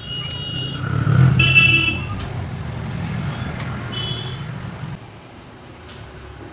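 A motor vehicle engine rumbles past, loudest about a second in, with a few short high horn beeps. The rumble fades at about five seconds into steady traffic noise.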